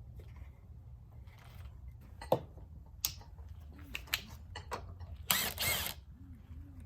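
Hand tools being handled: several sharp clicks and knocks, then a short ratcheting rattle lasting about half a second, over a faint steady low hum.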